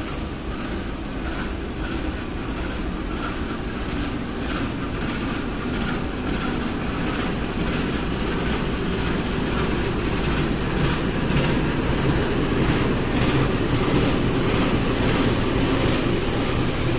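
A train passing on the tracks, its wheels clacking rhythmically over the rail joints about twice a second over a steady rumble, growing louder as it comes nearer.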